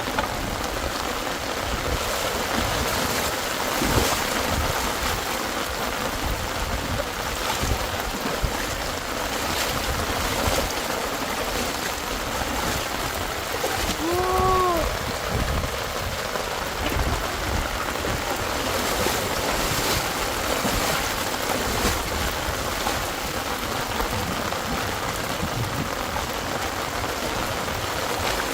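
Steady rain and running water, a constant rushing hiss. About halfway through comes one short call that rises and falls.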